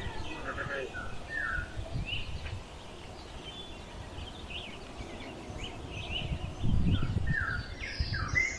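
Several birds chirping and calling in short repeated notes, over bursts of low rumble near the start and again about seven seconds in.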